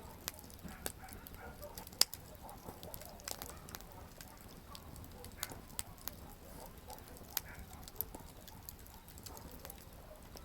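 Campfire burning wood, crackling with irregular sharp pops and snaps over a low steady rush of the flames; the loudest pop comes about two seconds in.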